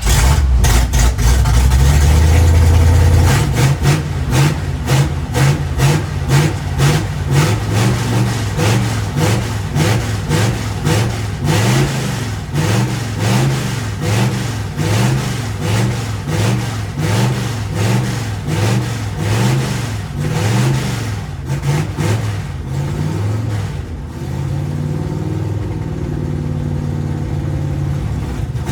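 Pickup truck V8 engine running and being revved: a strong rumble at first, then repeated rev blips rising and falling about once a second, easing to a steadier idle after about twenty seconds.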